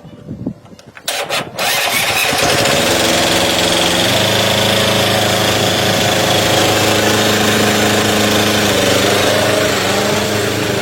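Restored ISEKI TX1210 compact tractor's engine starting: brief clatter, then it catches about a second and a half in, its revs rising and settling into a steady run.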